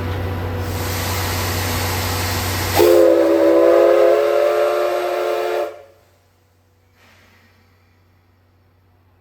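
C11 steam locomotive hissing loudly as it vents steam, then sounding its steam whistle: one multi-tone blast of about three seconds, starting about three seconds in and cutting off sharply, the departure signal.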